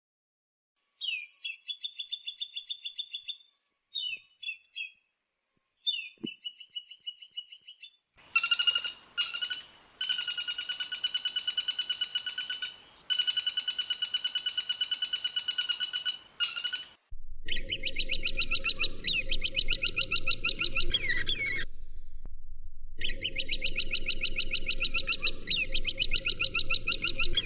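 Woodpecker calls: rapid rattling series of sharp, evenly repeated high notes in bursts of a few seconds, with short gaps between them. A low hum sits under the last two long runs.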